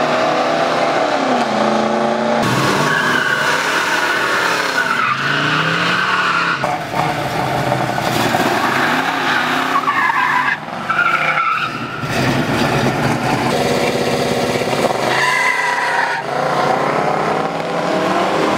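Old muscle cars running down a drag strip: engines revving hard under acceleration, their pitch climbing and then dropping at each gear change, over several runs.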